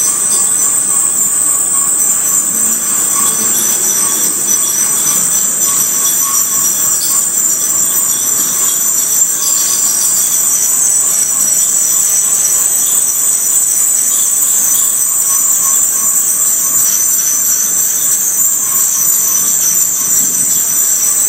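A rail train of flatcars loaded with long welded rail rolls slowly by while its rail is being unloaded, with a steady, high-pitched metallic squeal.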